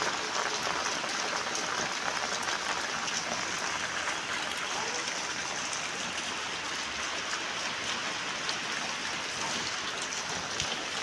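Steady rain falling on a paved tile floor and the puddles on it: a constant hiss sprinkled with many small drop impacts.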